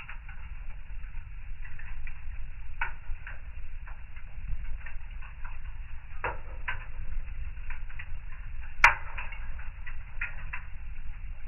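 Wood fire in a fireplace crackling: scattered snaps over a steady low rumble, with one loud pop near the end.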